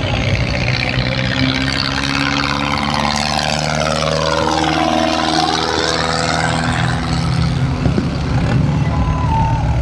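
Tractor engine running loud and steady, its sound sweeping down and back up about halfway through.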